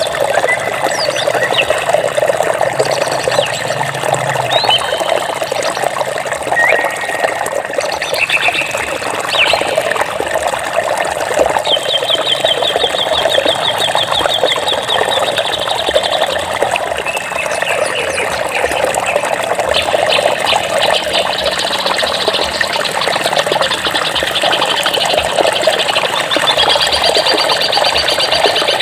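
Steady rush of flowing water with birds chirping over it: short whistled calls and quick slides, and a fast trill of rapidly repeated notes that comes twice, about halfway through and again later.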